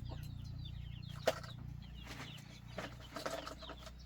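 Chickens clucking and giving many short, high peeping calls, with one sharp knock about a second in.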